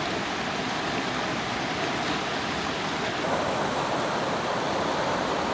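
Waterfall and creek water rushing steadily, an even wash of noise that gets a little louder about three seconds in.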